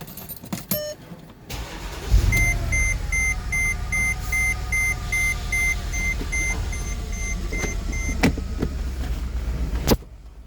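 A 2008 Mercedes-Benz GL's engine starts about two seconds in after a few clicks, its pitch settling as it drops to idle, while a dashboard warning chime beeps steadily for about six seconds; the engine sound cuts off suddenly near the end. It is being started to check whether a cylinder misfire is still there.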